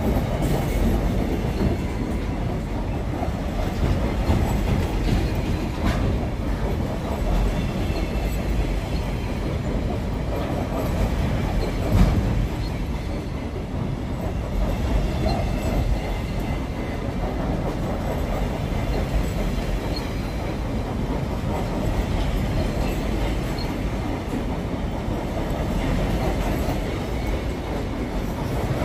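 Container train's freight wagons rolling past close by: a steady rumble of steel wheels on the rails with occasional knocks, the loudest a sharp bang about twelve seconds in.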